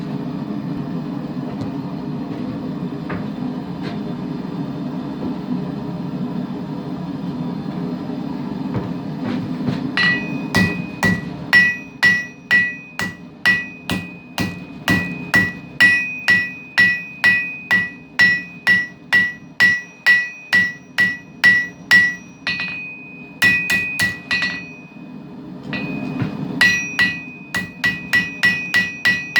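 The forge runs with a steady low roar for about ten seconds while the blade heats, then a hand hammer starts striking the hot knife steel on the anvil, about two blows a second, each ringing with a clear high anvil tone. The hammering stops twice briefly near the end and picks up again.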